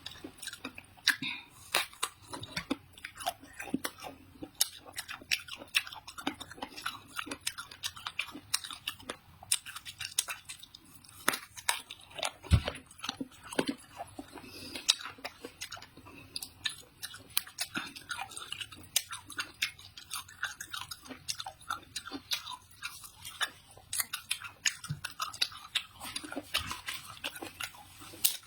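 Close-up chewing and biting of eggplant dipped in sauce: irregular wet crunches and mouth clicks throughout, with one dull low thump about halfway through.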